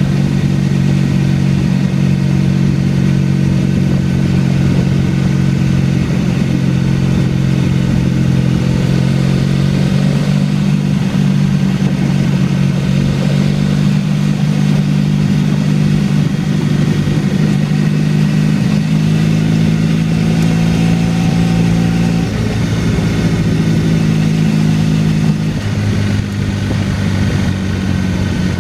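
Motorcycle engine running at a steady cruise of about 3,000 rpm, heard from the rider's seat with an even rush of wind. The engine note eases and shifts slightly a couple of times in the last few seconds.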